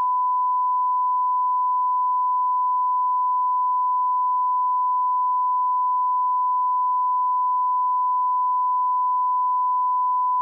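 Continuous 1 kHz sine-wave line-up tone at −18 dBFS, held perfectly steady at one pitch: the reference level for audio alignment.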